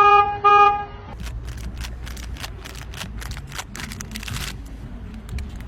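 A horn sounding in short blasts, the last ending about a second in. After it comes a steady low rumble with scattered clicks and knocks.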